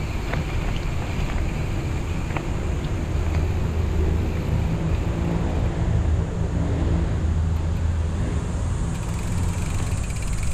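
A motor vehicle's engine running with a low, steady hum over a rumble that grows stronger in the middle and eases near the end.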